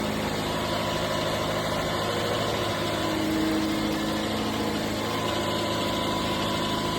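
Car engine idling steadily just after a jump-start, its battery flat and in need of charging.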